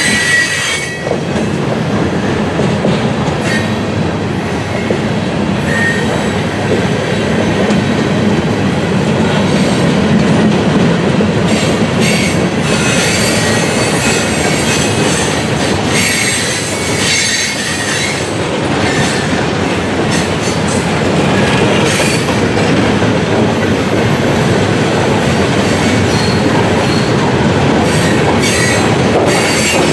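Freight cars of a passing CSX manifest train rolling by: a steady rumble of steel wheels on rail, with short high wheel squeals coming and going.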